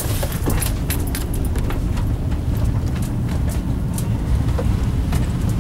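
Car on the move: a steady low rumble of engine and tyres, with many scattered sharp ticks over it.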